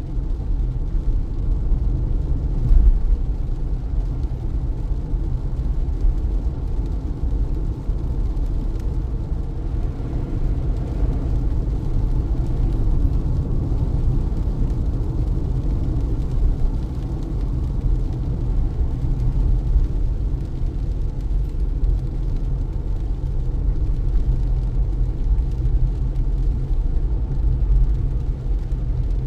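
Car driving in the rain: a steady low rumble of road and tyre noise heard from inside the cabin, with a faint hiss of rain.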